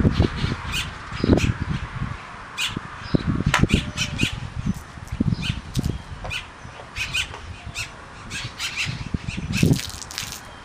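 Birds squawking and calling in many short, sharp notes, over irregular low rumbles.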